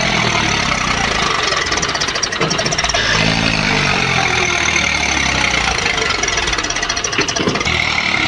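A tractor engine running loudly and hard, with a steady dense clatter.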